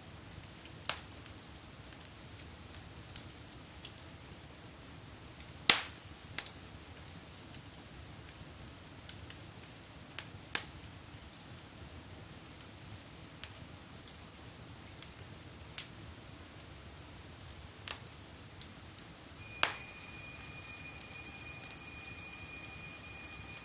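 Wood fire burning in a fireplace: irregular sharp pops and crackles over a low, steady hiss, the loudest pop about six seconds in. Near the end a faint steady high tone joins in.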